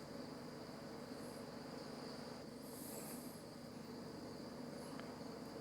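Faint, steady high-pitched drone of insects calling in the background, with a couple of brief faint high hisses about a third of the way in and around the middle.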